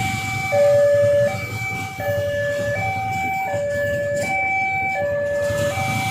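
Railway level-crossing warning alarm sounding: an electronic two-tone signal that alternates between a lower and a higher note about every three-quarters of a second, over a low rumble.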